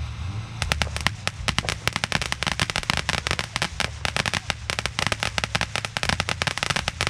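Fireworks going off in a rapid, irregular string of sharp pops and cracks, several a second, starting about half a second in.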